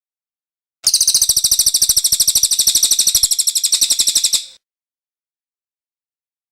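Cililin bird singing one high, very rapid trill of about three and a half seconds, starting about a second in and stopping abruptly.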